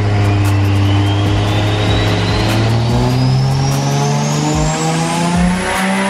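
Toyota JZX100 Mark II's turbocharged straight-six under full load on a rolling-road dyno during a mapping pull, revs climbing steadily with a thin whine rising alongside. Near the end the pull eases off and the engine note changes.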